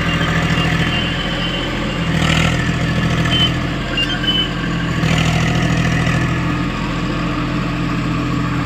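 Tractor's diesel engine running steadily at idle, its low rumble swelling slightly now and then.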